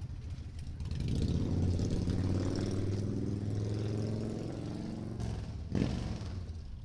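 A car engine running close by, swelling about a second in and fading away before five seconds, like a car driving past. A single sharp knock follows near six seconds.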